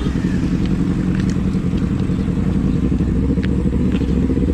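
Motorcycle engine running steadily at low road speed, heard from the bike itself.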